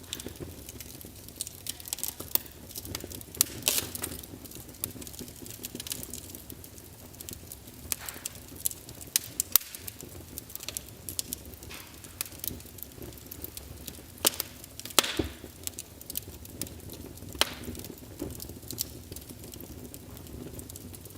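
Wood fire burning in a fireplace: a low steady rumble of flame with irregular crackles and sharp pops, a few louder snaps scattered through.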